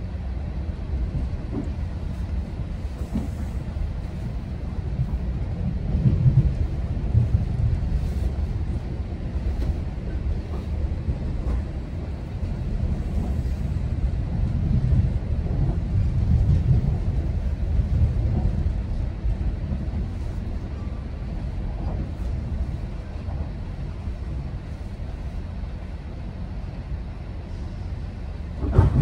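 GO Transit commuter train running between stations, heard from inside a passenger coach: a steady low rumble of wheels on the rails that swells and eases. A sharp knock comes right at the end.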